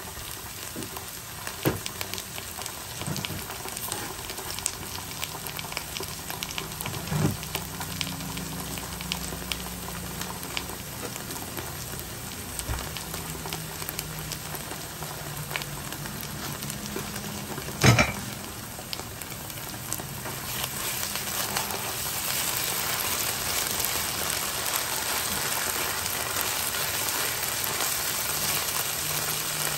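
Chopped onions and garlic-ginger paste sizzling in hot oil in a nonstick frying pan, being sautéed. There is one loud knock a little past the middle. The sizzle grows louder over the last third as the mixture is stirred with a silicone spatula.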